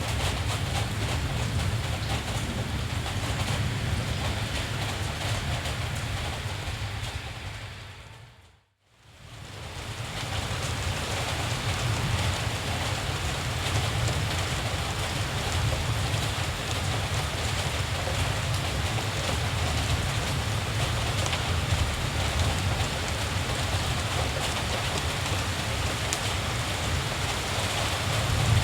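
Steady rain falling, with a low, even rumble underneath. About eight seconds in, the whole sound fades down to silence and then fades back up over a second or so.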